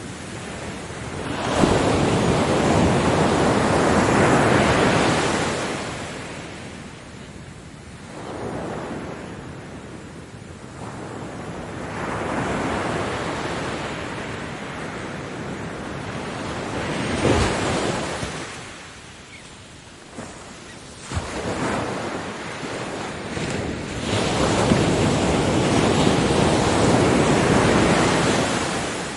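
Ocean waves breaking on a beach, a wash of surf that swells and fades as each wave comes in and draws back, with the biggest surges near the start and near the end. A few sharper crashes stand out, about halfway through and again a few seconds later.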